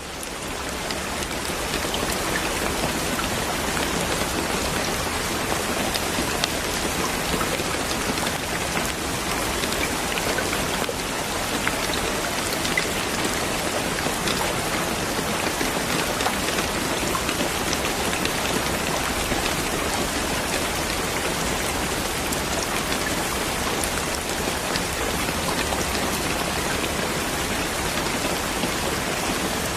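Steady rain falling, a dense even hiss with scattered drop ticks, fading in over the first second or two.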